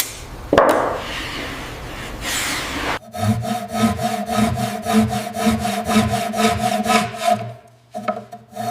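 A rhythmic rasping, sawing-like sound effect with a steady hum under it, pulsing about three times a second from about three seconds in. Before that there is a noisy rushing sound with a couple of sharp clicks.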